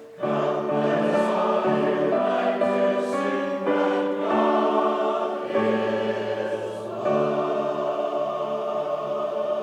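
Choir singing a hymn in sustained, slowly changing chords, after a brief breath between phrases at the very start.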